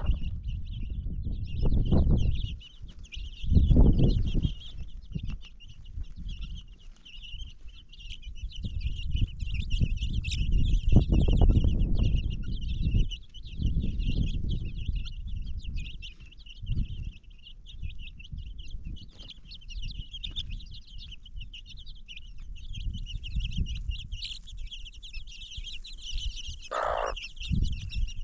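Bird calls over a steady high-pitched chirring, with loud low rumbles coming and going.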